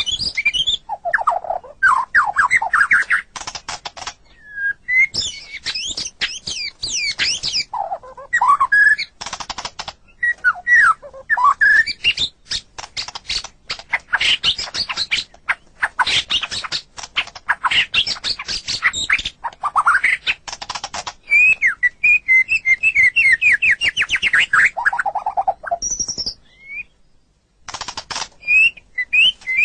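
White-rumped shama (murai batu) singing a long, varied song: sweeping whistles and quick trills mixed with fast rattling clicks, broken by a short pause near the end.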